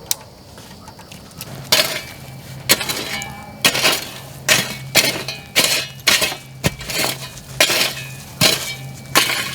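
Repeated metallic clanks of a cooking utensil striking a pan, about one a second, each with a short ring, over a low steady hum.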